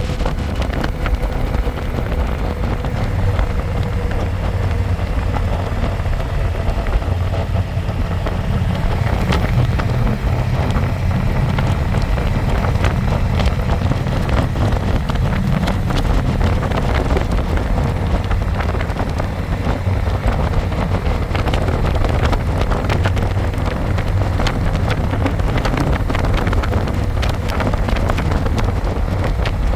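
Harley-Davidson Electra Glide's V-twin engine running steadily on the move, with wind rushing and buffeting over the microphone.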